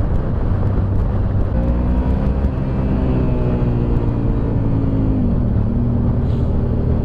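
Suzuki SV650S's 645 cc V-twin engine running under way, with wind rushing over the microphone. The engine note holds fairly steady, drops about five seconds in as the revs fall, then levels off.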